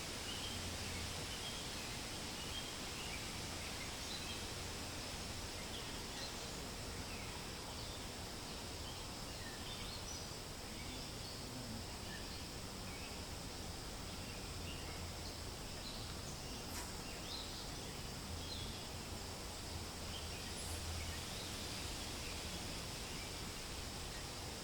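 Wind rustling through forest leaves as a steady hiss, with many small birds chirping: short, high chirps scattered throughout.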